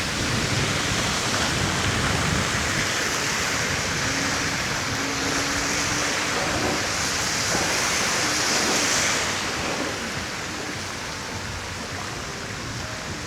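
Steady rushing noise of an electric scooter riding on a wet, salted road: tyre hiss on the wet surface mixed with wind rushing past. It eases off a little about ten seconds in.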